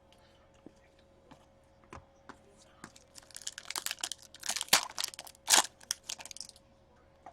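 Plastic packaging crinkling and rustling as trading cards are handled: a few light clicks, then about three and a half seconds of dense crackling with two sharper, louder crinkles near the middle.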